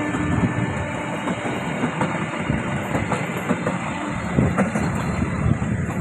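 Railway carriages rolling past close by: a steady rumble of steel wheels on the rails, with many sharp clicks and clacks as the wheels cross the rail joints.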